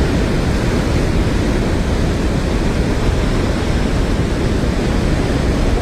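Loud, steady rush of fast-flowing floodwater, a continuous noise heavy in the low end.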